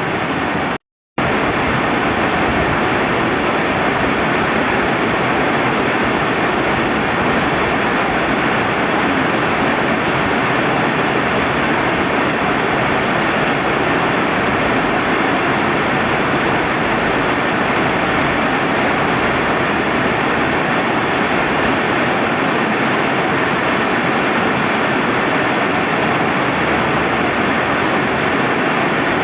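Steady rain and rushing river water, an unbroken even hiss, cut off completely for a moment about a second in before resuming.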